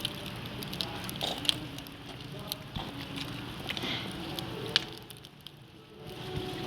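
Burning firewood crackling, with sharp pops and snaps at irregular intervals over a low hiss. The loudest snap comes a little before five seconds in, and the fire goes quieter for about a second just after it.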